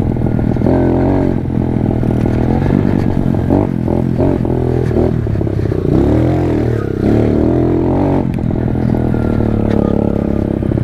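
Pit bike engine running as the bike is ridden, its pitch rising and falling with the throttle, with a few knocks from the bike about four seconds in.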